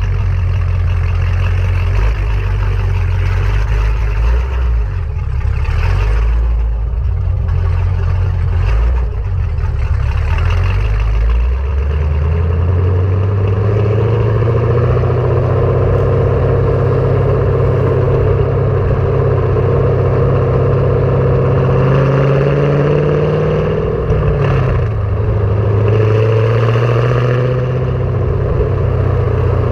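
Chevrolet Camaro SS's 6.2-litre LS3 V8 through Kooks long-tube headers and a Borla ATAK cat-back exhaust. It rumbles unevenly at low revs, then the revs rise about twelve seconds in and hold at a steady note, with a brief dip and recovery around twenty-five seconds.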